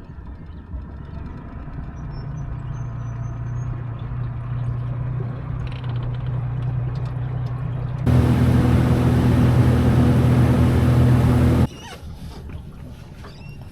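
Boat motor running with a steady hum that slowly grows louder. About eight seconds in it turns much louder, with a rush of water or wind noise, for about three and a half seconds, then cuts off sharply.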